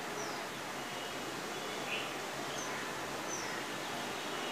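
Steady background hiss with a few faint, short, high bird chirps, each dropping quickly in pitch.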